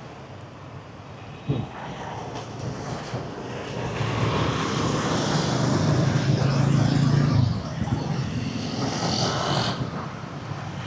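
Street traffic with a motor vehicle passing close by: its engine hum swells about four seconds in, holds for a few seconds, then drops away, leaving the lower traffic background.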